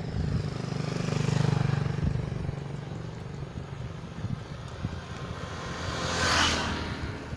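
A small engine running, loudest about a second and a half in and then fading, followed near the end by a brief rush of noise like wind or tyres.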